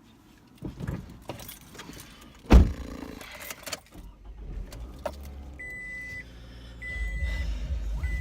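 A car door shuts with one loud thud about two and a half seconds in, after some lighter knocks and handling sounds. From a little past halfway a car's warning chime beeps steadily, about once a second, over a low rumble.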